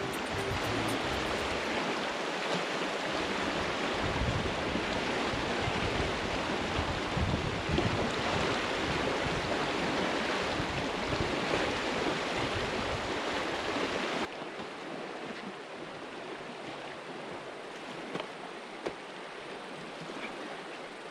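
Rushing water of the Red Deer River running high after torrential rain, a steady hiss. About two-thirds of the way through it cuts abruptly to a quieter, thinner rush of water.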